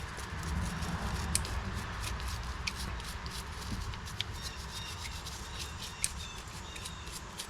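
A small toothbrush scrubbing grit off the outside of a lawnmower carburetor: a steady rubbing of bristles with scattered small clicks.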